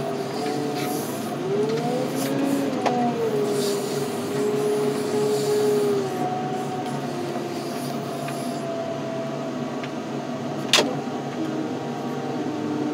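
Heavy equipment running with a steady whine that glides up and down in pitch as it works under load, the kind heard when lifting a truck onto a crusher rack. There is a sharp knock about three seconds in and another near eleven seconds.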